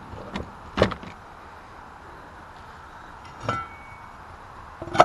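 A few separate metallic clinks and knocks, one about three and a half seconds in ringing briefly, from a chainsaw and a steel clearing-saw blade being handled.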